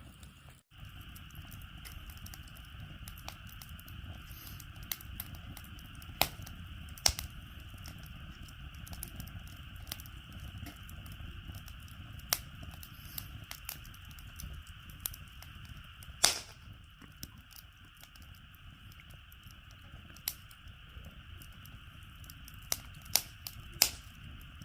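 Wood fire crackling, with sharp pops at irregular intervals over a steady low rumble; the loudest pop comes about two-thirds of the way through, and several more come close together near the end.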